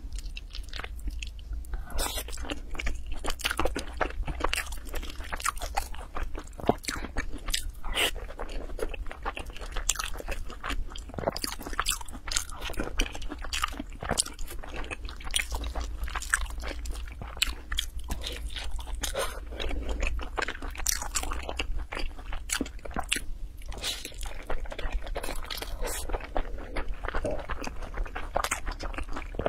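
Close-miked chewing of mouthfuls of yellow rice with shredded meat: a dense run of small crunchy clicks and wet smacks at an irregular pace, over a steady low hum.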